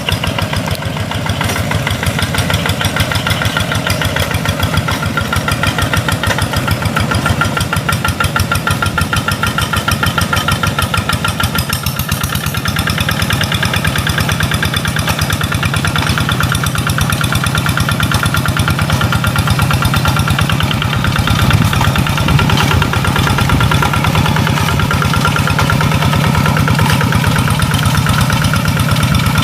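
Rice-paddy tractor's diesel engine running steadily with an even, rapid firing pulse.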